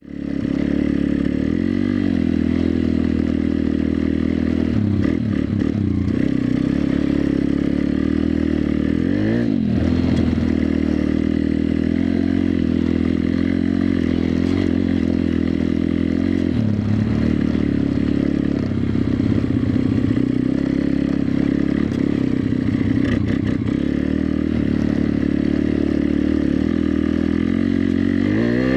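Pit bike's 140 cc single-cylinder four-stroke engine running hard under way, its revs dropping and climbing again several times, about 5, 9 and 16 seconds in, with a clattering rattle over it.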